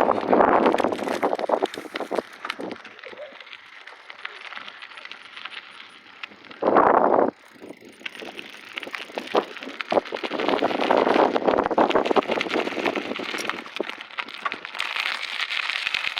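Gusts of wind buffeting a phone microphone, rising and falling in swells, with a sharp loud blast about seven seconds in. Scattered clicks and rattles run underneath.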